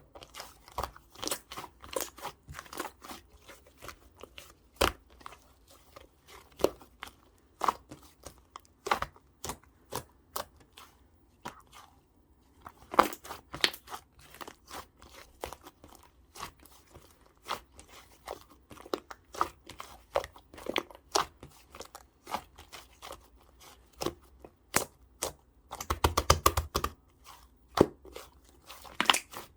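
Purple clay-mixed slime being squeezed and worked by hand, giving irregular crackling pops and clicks, with a dense run of them near the end.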